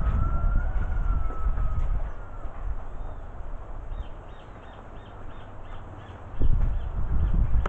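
Low rumble of wind on the microphone, with a bird calling in the background: a long thin tone at first, then a steady series of short high notes, about two a second, in the second half.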